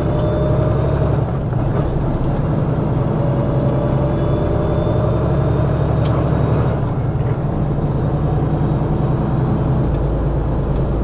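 Semi truck's diesel engine running steadily.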